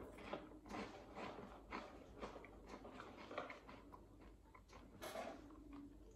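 Faint crunching of a puffed corn snack stick being chewed with the mouth closed: irregular crisp crunches, about two a second, with a slightly sharper one about five seconds in.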